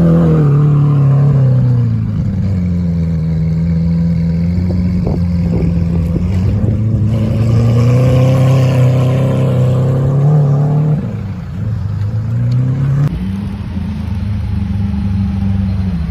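Lamborghini Aventador's V12 engine running at low revs as the car pulls away and cruises, its note dipping and rising gently with light throttle. About 13 seconds in, the engine note changes abruptly to a slightly higher, steadier tone.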